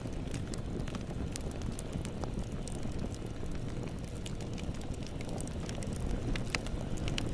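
Bonfire burning steadily with a low rumble of flames and scattered sharp crackles and pops of burning wood.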